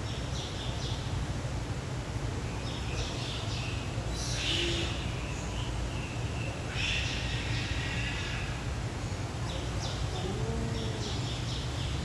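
Short, high bird calls come every second or two, the clearest about four and seven seconds in, over a steady low hum.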